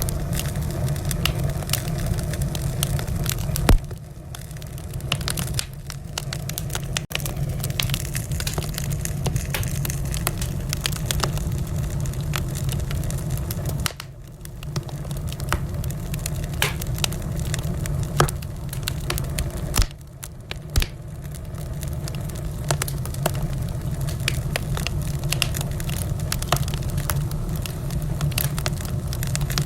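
Wood fire in a fireplace crackling: dense, irregular sharp pops and snaps over a steady low rumble, dipping in loudness briefly a few times.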